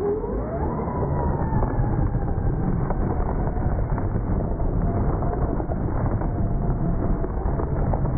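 Muffled, steady rumble of an RC truck run with heavy wind noise. A faint electric-motor whine climbs in the first second, then holds and slowly sinks.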